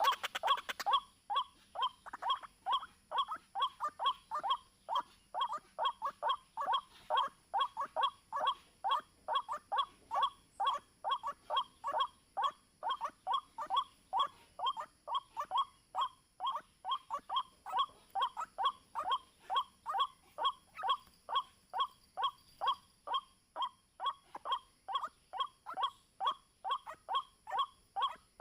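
White-breasted waterhen (ruak-ruak) calling: one short call repeated at a steady pace, about two to three times a second, without a break.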